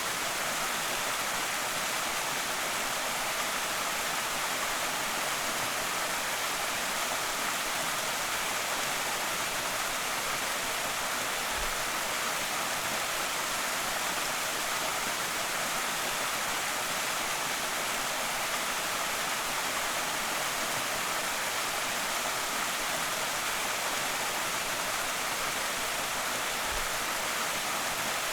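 Creek waterfall: falling water making a steady, even rushing hiss that does not change.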